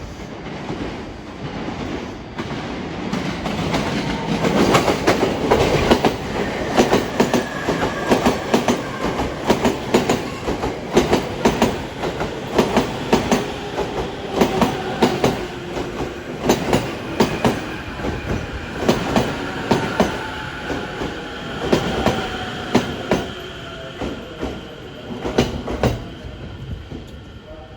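A Sobu Line electric train passing, its wheels clacking over the rail joints in a long run of quick clicks, loudest through the middle and fading near the end. A faint whine slides down in pitch under the clatter.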